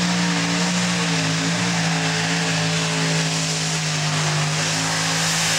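Modified pulling tractor engines running hard at high revs, a loud steady drone whose pitch holds and sags slightly.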